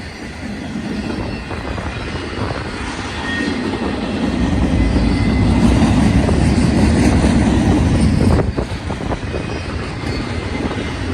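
Westbound intermodal stack train rolling past, its wheels on the rails making a steady rumble that grows louder about four seconds in and drops back suddenly a little after eight seconds.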